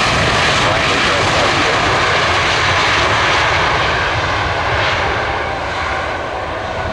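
Boeing 737-800's CFM56 jet engines loud on the landing roll, a dense even rush of engine noise that eases off over the last few seconds as the jet slows.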